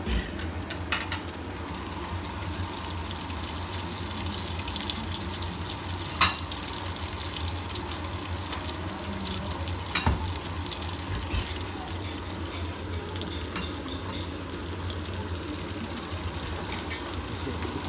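Slices of duck foie gras and fruit frying in pans, a steady sizzle and crackle of hot fat. A few sharp knocks cut through it, the loudest about six seconds in and another about ten seconds in.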